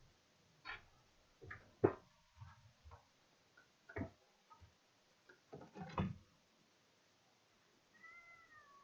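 A run of sharp knocks and clatters, then near the end a short, falling, meow-like cry.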